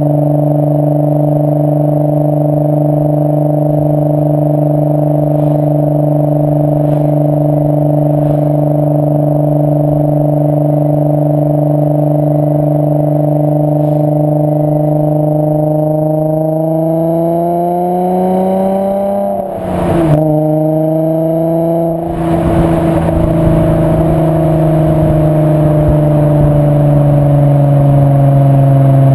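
VW 2.8 VR6 24V engine through a Milltek non-resonated exhaust. It drones steadily at constant revs, then the revs climb, the note breaks off sharply for a moment, and the engine pulls again with a rougher, harder exhaust note whose pitch slowly eases down.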